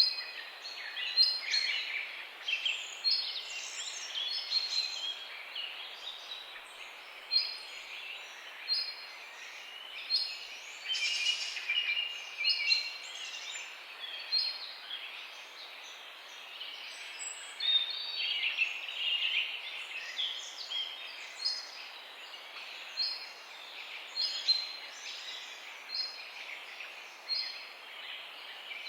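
Several birds chirping and calling: short, repeated high notes, some clustered into quick twittering runs, over a faint steady background hiss.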